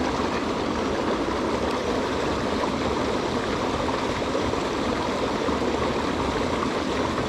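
Mountain stream rushing steadily, an even, unbroken noise of flowing water.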